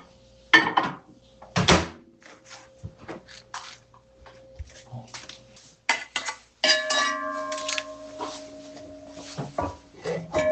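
Metal pots and pans clinking and clattering in a kitchen as a series of knocks and clanks. About two-thirds of the way through, a struck pot rings on for a few seconds.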